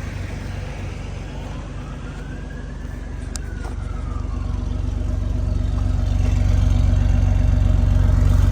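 2006 Jeep Wrangler TJ engine idling through its newly installed exhaust, a steady low note that grows louder from about halfway. A faint tone rises and falls in pitch early on, and there is a single click near the middle.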